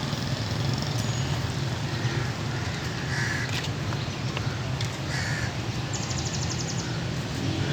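Crows cawing a few times, over a steady low hum.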